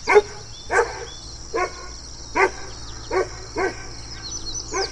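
A dog barking in single barks, about seven of them at a steady pace of roughly one a second, with faint high chirping behind.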